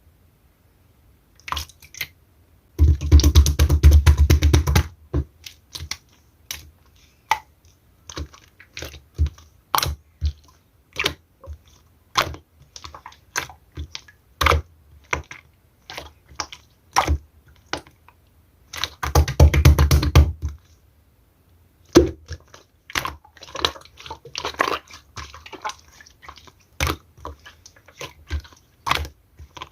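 Clear slime being pressed and played with by hand: a steady run of sharp sticky clicks and small pops, with two longer, louder dense stretches of crackling, about three seconds in and again near nineteen seconds.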